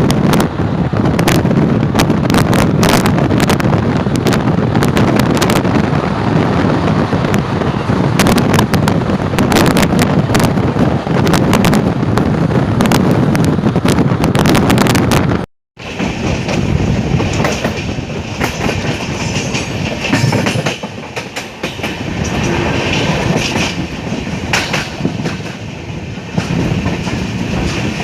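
Passenger train running along the line, its coach wheels clattering over rail joints with a dense, heavy rumble. After a brief break about halfway through, the sound resumes lighter and thinner, with the clatter still going.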